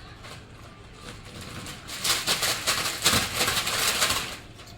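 Potato chips crackling and crunching: a dense, dry run of rapid crackles lasting about two seconds, starting near the middle.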